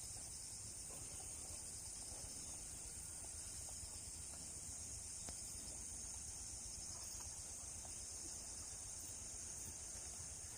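Steady, high-pitched trilling of insects, a continuous outdoor chorus, with faint scattered ticks underneath.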